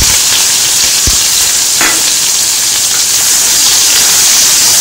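Chopped onion and curry leaves sizzling hard in hot oil in a kadai, a loud steady hiss as their moisture hits the oil during the tempering. A wooden spatula stirs them, with a few soft low knocks.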